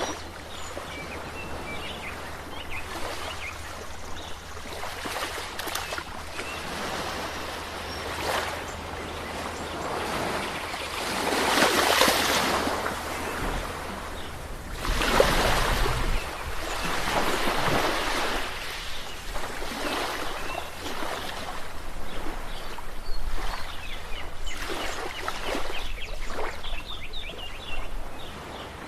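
Sea waves breaking and washing on a shore, with surges as waves crash about 11 and 15 seconds in and the fizzing wash of water between them.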